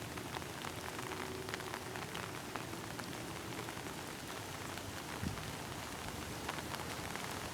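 Steady rain falling, a hiss with many small scattered drop ticks.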